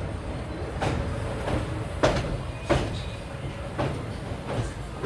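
Passenger train running, heard from inside a carriage: a steady low rumble with sharp clacks of the wheels over rail joints, about five of them at uneven spacing.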